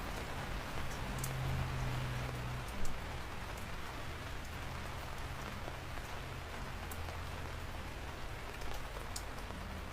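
Steady rain falling on a surface, with individual drops ticking sharply now and then and one brief louder hit about a third of the way in.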